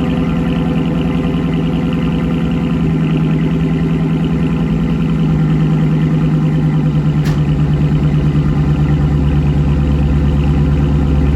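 Dodge Challenger Scat Pack's 6.4-litre HEMI V8 idling after a cold start through a Borla ATAK cat-back exhaust, a steady low rumble. About five seconds in it gets louder and deeper.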